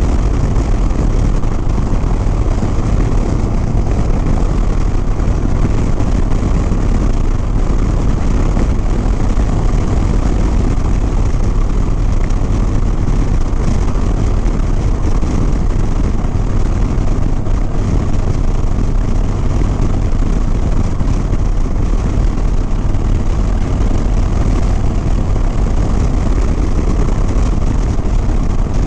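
Harley-Davidson Sport Glide's Milwaukee-Eight V-twin running at a steady cruise, mostly buried under a constant heavy rush of riding wind on the helmet microphone, strongest in the low end.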